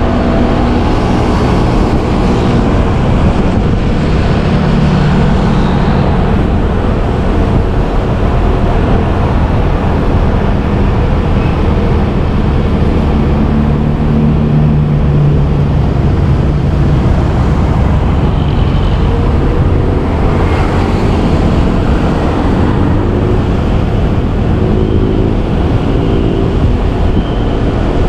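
Motorbike riding through city traffic: a loud, steady rush of wind on the microphone over the engine's hum, which rises and falls in pitch a few times.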